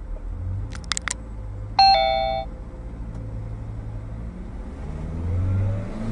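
Steady low engine and road hum of a moving vehicle, with a few sharp clicks about a second in, then a loud two-note electronic chime, ding-dong, that starts suddenly at about two seconds and fades within a second.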